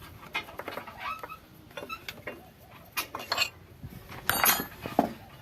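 Metal hand tools and tractor parts clinking and knocking together in irregular strokes, with the loudest knocks near the end.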